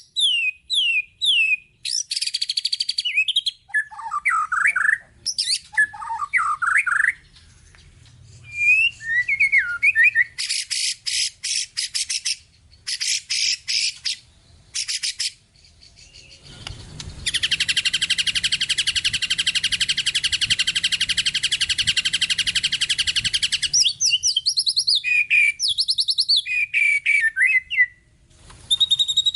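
White-rumped shama (murai batu) singing a varied song packed with mimicked phrases: runs of quick repeated notes, slurred whistles, and a long fast rattle in the middle lasting several seconds, ending on a held high whistle.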